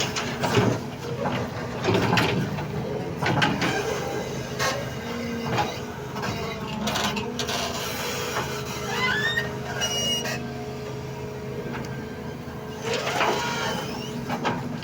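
Doosan 220 excavator's diesel engine running steadily, with repeated metal clanks and knocks and brief metallic squeals about nine to ten seconds in.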